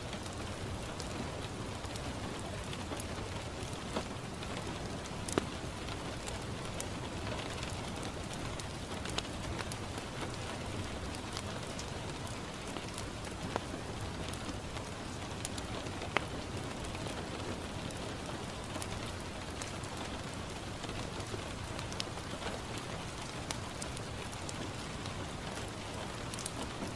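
Steady rain falling on a window pane, with scattered sharp pops and crackles from a wood fire in a fireplace.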